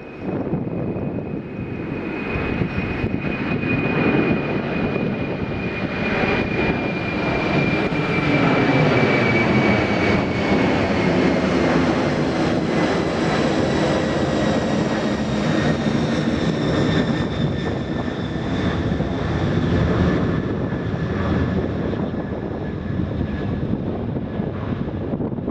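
Jet airliner engines passing by: a steady rumble that builds to a peak around the middle and then eases off, with a high whine that slowly falls in pitch as the aircraft goes past.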